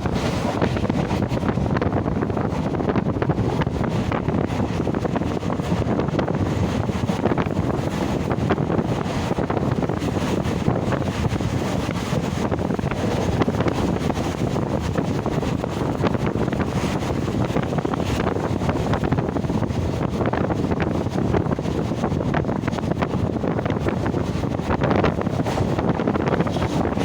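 Steady rush of wind buffeting the microphone over the running noise of a moving train.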